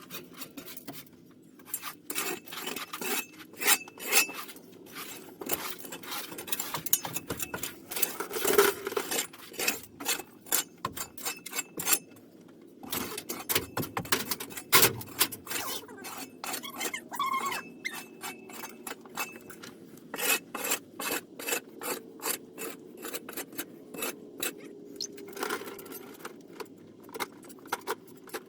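Irregular scraping, rubbing and clicking, with a faint steady hum beneath.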